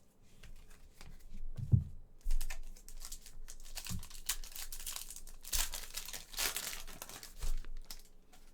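Foil wrapper of a Panini football card pack crinkling and tearing as it is ripped open, a dense crackle lasting about five seconds and heaviest near the end. A low thump comes just before it.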